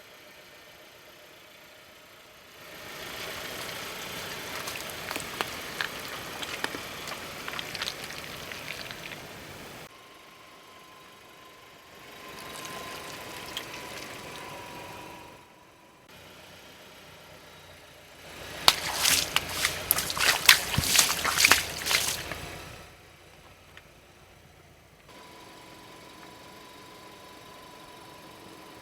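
Three separate takes of a car's tyres rolling over and crushing things, each a stretch of crackling and crunching with a trickling, pouring sound of liquid. The loudest comes about two-thirds through, a quick run of sharp cracks.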